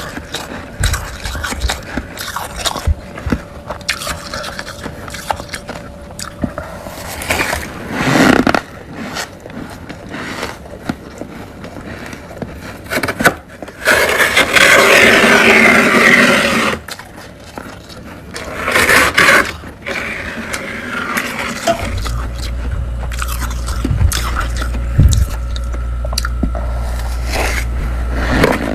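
Humidifier frost being scraped and crunched in the mouth: irregular crisp crunches, with a long loud scrape about halfway through and a shorter one a few seconds later. A steady low hum comes in about three-quarters of the way through.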